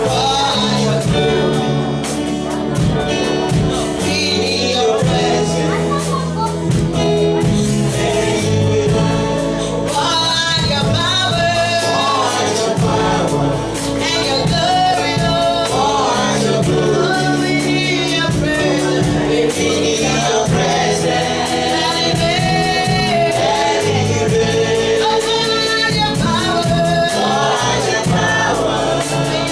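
Gospel worship song: a group of voices singing together over keyboard, bass and drums with a steady beat.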